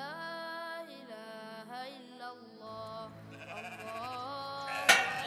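Sheep bleating: several long drawn-out calls one after another over soft background music, with one short sharp knock near the end.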